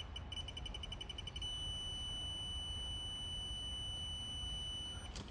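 Digital torque wrench adapter beeping on a bolt being tightened: short high beeps come faster and faster, then turn into one steady tone about a second and a half in that holds until near the end, the signal that the set torque has been reached.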